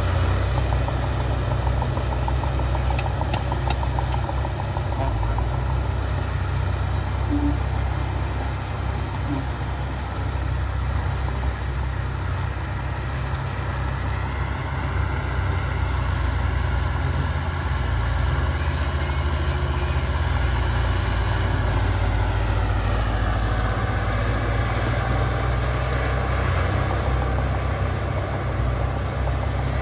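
Heavy diesel engine of earthmoving machinery running steadily. Its pitch rises about halfway through and drops back a few seconds later, with a few sharp metallic clicks early on.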